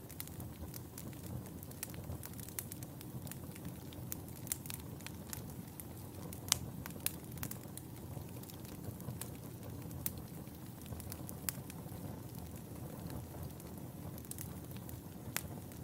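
Wood fire burning in a fireplace: a low steady rumble of flames with irregular sharp crackles and pops, the loudest pop about halfway through.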